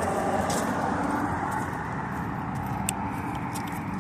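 Road traffic: steady car and tyre noise from vehicles driving by, with a sharp click about three seconds in.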